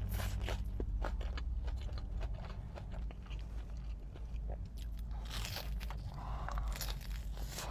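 Close-up mouth sounds of a person biting and chewing a sushi roll with shrimp, avocado and kani salad: wet chewing with many small crunchy clicks and crackles, denser about five and seven seconds in, over a steady low hum.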